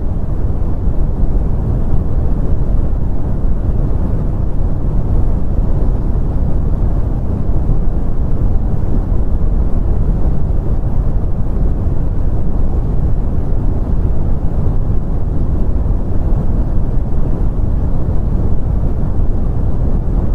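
Brown noise: a steady, loud, deep rumbling hiss with most of its energy in the low end and little above about 1 kHz, unchanging throughout.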